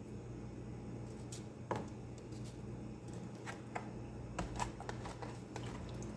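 Cauliflower being cut into florets with a knife: scattered, irregular clicks and knocks of the blade on the cutting board.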